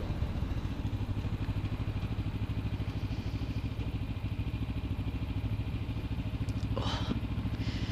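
Kawasaki Ninja 300's parallel-twin engine running at low, steady revs with an even pulsing beat. A short burst of noise about seven seconds in.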